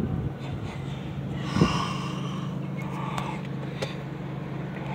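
Car engine idling, a steady low hum heard from inside the cabin, with a short breathy sound about two seconds in.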